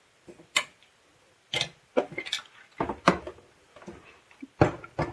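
A handheld tape gun dispenser being handled and taken apart: a series of sharp clicks and light knocks from its parts, irregularly spaced, about eight in a few seconds.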